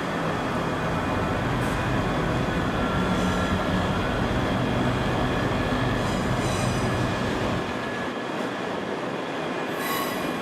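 Scotrail class 385 electric multiple unit running slowly into the platform with a steady hum from its traction equipment. Short high-pitched squeals break in about four times.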